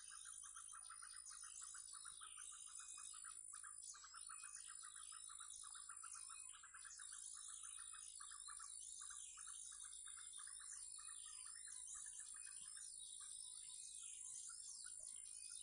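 Small birds chirping and twittering continuously, over a rapid, regular pulsing trill underneath.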